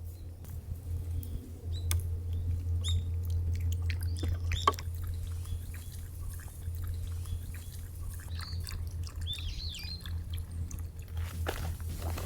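Small birds chirping in short calls, twice in brief clusters, over a steady low hum, with scattered light clicks.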